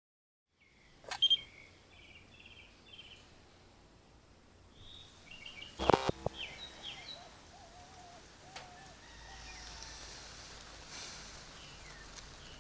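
Birds chirping in short calls over a faint outdoor background. There are two sharp clicks, one about a second in and a louder one about six seconds in.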